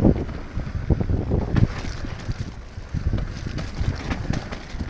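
Mountain bike ridden down a wet, muddy trail: wind buffets the microphone, with irregular knocks and rattles from the bike over rough ground.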